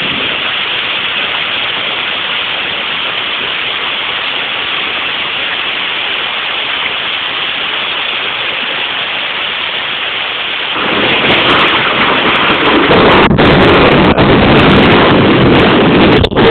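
Rain falling steadily. About eleven seconds in, a long rumble of thunder swells in and becomes the loudest sound.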